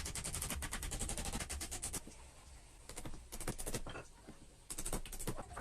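A rapid mechanical rattle of sharp knocks, about ten a second, in three runs: a long one, then two shorter ones a second apart.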